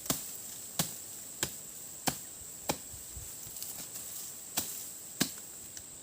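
Wood being chopped with a blade: five sharp chops at an even pace, about two-thirds of a second apart, a pause, then two more chops near the end.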